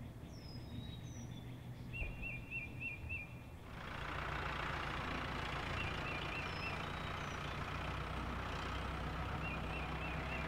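Car engine sound effect running steadily, joined about four seconds in by a louder, even rushing of driving noise as the car moves off. Short runs of quick bird chirps repeat over it.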